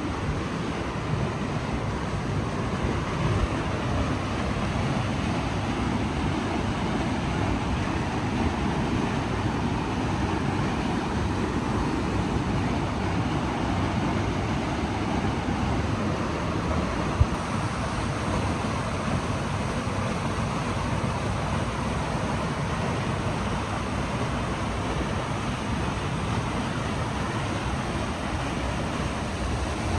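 Steady rush of river water, with a single brief click about seventeen seconds in.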